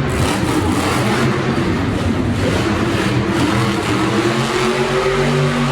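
Monster truck's supercharged V8 engine running loud and revving, its pitch rising and falling.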